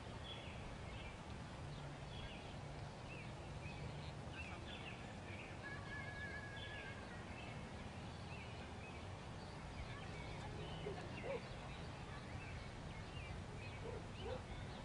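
Birds chirping in short repeated calls over a steady low background rumble, with a brief held whistle-like note about six seconds in.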